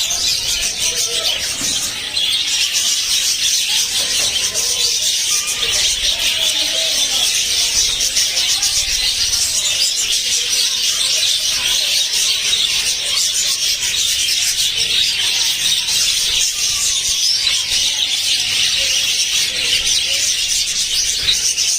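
A flock of budgerigars chattering and warbling without a break, a steady wash of high chirps.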